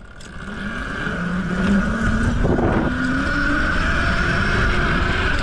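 Mini bike engine revving up, its pitch and loudness climbing over the first couple of seconds, then running hard at high revs.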